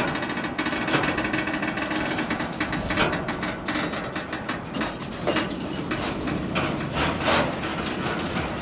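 Norfolk Southern freight train's tank cars rolling slowly past close by: steel wheels and couplers creaking, with irregular clanks and knocks.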